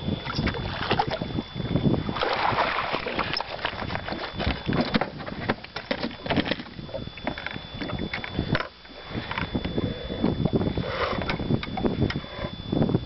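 Wind on the microphone and water sloshing around a small fishing boat, with irregular knocks and clatter of handling in the boat and a thin, steady high whine that drops out twice.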